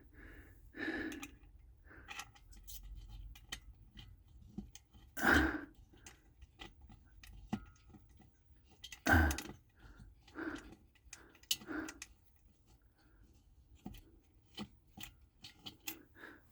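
A man's strained grunts and sighs of effort, about five of them, among light clicks and taps of small diesel heater parts being handled and fitted.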